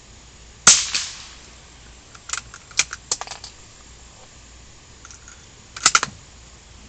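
A single gunshot a little under a second in, with a short trailing echo, followed by a run of sharp clicks and, near the end, a quick loud cluster of clicks.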